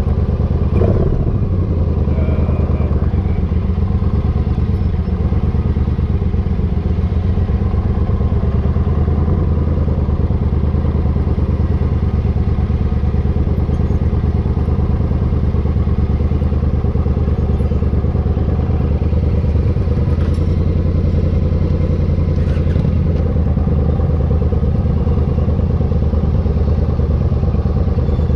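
Motorcycle engine running steadily, with an even level throughout.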